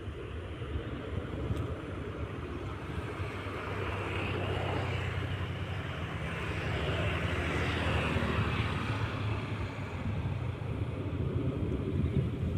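Jet airliner engines at take-off power, a steady rumble and roar that swells to a peak about two thirds of the way through and then eases a little as the aircraft passes.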